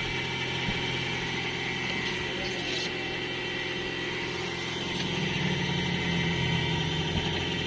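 Chevrolet Optra engine running steadily with a faint high whine. The car is stuck with its automatic transmission giving no drive. About five seconds in, a lower hum grows a little louder.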